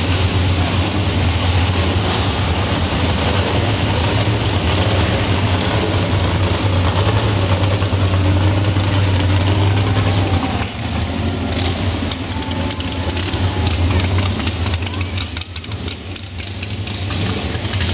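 Muscle car engines idling and rumbling as the cars creep past at walking pace inside a large hall. The steady low rumble eases a little past halfway.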